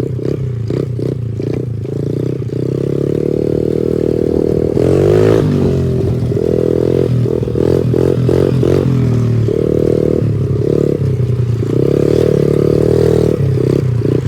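Pit bike engine running under a choppy throttle, the note repeatedly opening up and dropping back, with one longer rev about five seconds in that climbs and falls.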